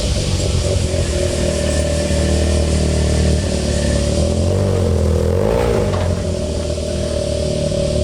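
Modified car's exhaust rumbling at low revs, with one short rev that rises and falls about five and a half seconds in.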